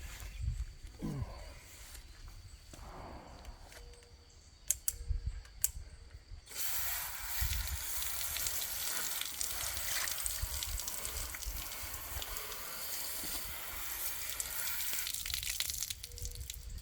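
A few sharp clicks, then a garden hose spraying water in a steady hiss for about nine seconds, rinsing cleaner off a kayak hull; the spray stops near the end.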